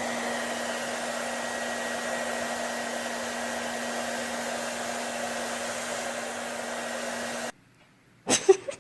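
Steady whirring of a small motor blowing air, with a low constant hum under the rush. It cuts off suddenly near the end.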